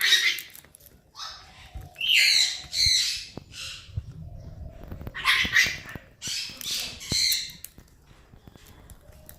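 Pet parrot squawking: a run of loud, harsh calls in clusters of two or three, with short pauses between them.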